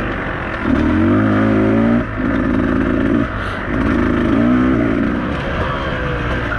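Beta 200RR two-stroke enduro motorcycle engine on and off the throttle in short bursts, its pitch rising about a second in and falling away between each opening.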